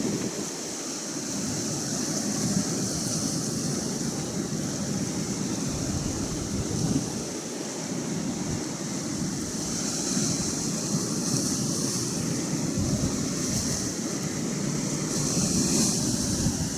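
Atlantic Ocean waves washing ashore, a continuous rushing hiss that swells and fades several times, with wind gusting on the microphone.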